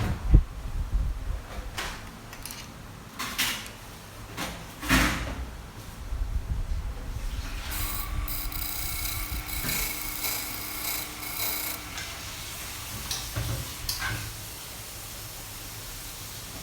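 Nipper-sharpening machine and tools being handled with knocks and rubbing, then the machine running with a steady whine for about four seconds, and another knock near the end.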